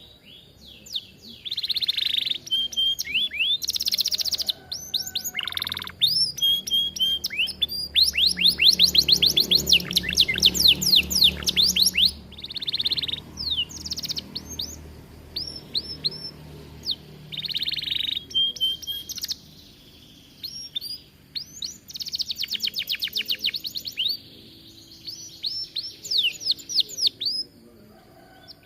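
Domestic canary singing a long, varied song: fast trills of rapid repeated notes, the longest about 8 to 12 seconds in and again about 22 to 24 seconds in, broken by short chirps, rolls and brief pauses.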